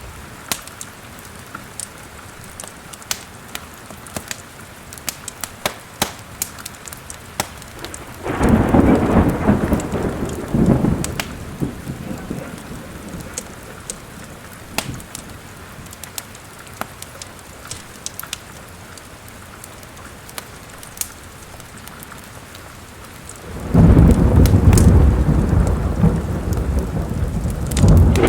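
Steady rain with fireplace logs crackling and popping throughout. Two rolls of thunder: one rumbles about a third of the way in and dies away over a few seconds, and a louder one breaks near the end.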